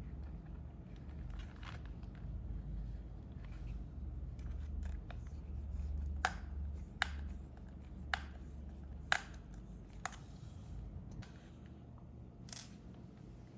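Hands handling a toy's packaging and plastic parts: soft scraping and rustling, then a series of sharp clicks about a second apart in the second half, over a low steady hum.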